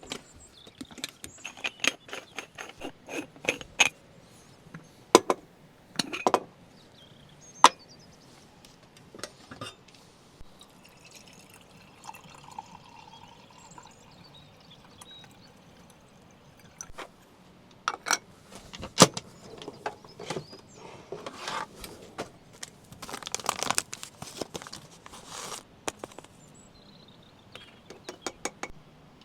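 Scattered clinks and clicks of cups, spoons and other kitchenware being handled as coffee is made, with several sharper knocks among them.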